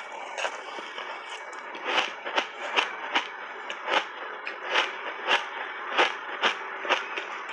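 Crunchy shaved ice being chewed with the mouth close to the microphone: soft scraping at first, then from about two seconds in sharp crunches, about two or three a second.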